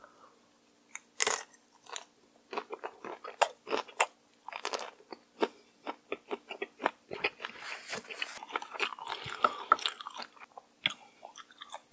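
Close-miked crunching and chewing of a whole cooked shrimp eaten with its shell on. There is one loud crunch about a second in, then a long run of quick, sharp crunches.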